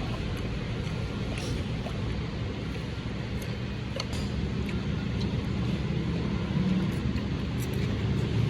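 Steady low rumble of a running vehicle, with a few faint clicks, growing slightly louder near the end.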